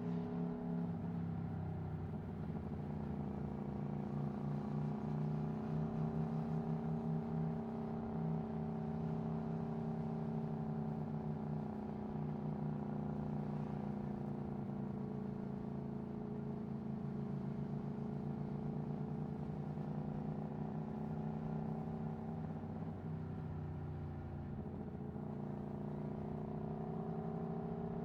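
Aprilia Tuono V4 1100's V4 engine through an Akrapovic Racing exhaust, running at fairly steady revs under way. Its pitch sags and rises gently a few times, dipping near the start and again late on before climbing back near the end.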